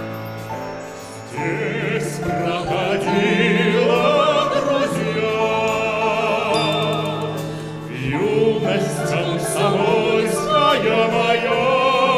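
Classical vocal performance of a Soviet art song: singing with strong vibrato over sustained instrumental accompaniment. The voices come in about a second and a half in, ease off briefly around two-thirds of the way through, and then return.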